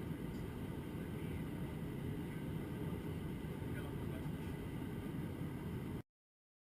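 Steady low rumble of an Airbus A321-200 cabin in flight, engine and airflow noise. It cuts off abruptly to silence about six seconds in.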